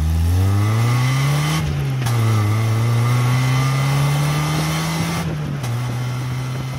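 Mazda MX-5 Miata (NA) four-cylinder engine accelerating hard, revs climbing through the gears. It shifts up twice, about a second and a half in and again about five seconds in, then holds steady revs.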